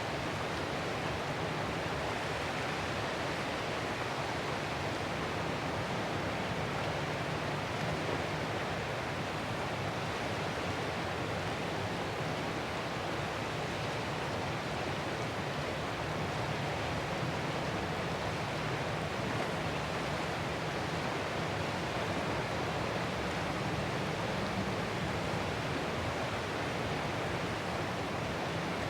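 Ocean surf as a steady, even rushing hiss, with no separate wave crashes standing out.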